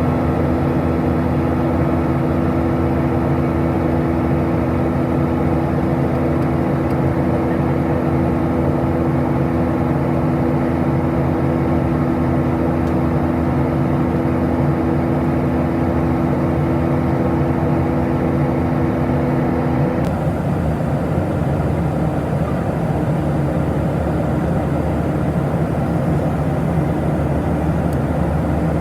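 Steady cabin noise of a Boeing 737-700 with its CFM56-7B engines running, a constant rush of engine and air noise. Two steady hums stop abruptly about twenty seconds in and the noise shifts slightly in character.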